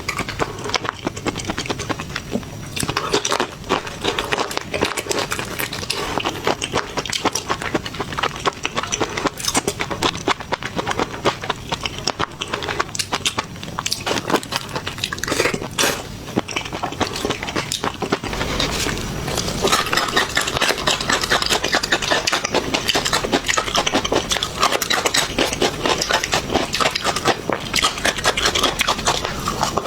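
Busy clatter of utensils and dishes: many small irregular clicks, clinks and scrapes, growing denser and fuller about two-thirds of the way through.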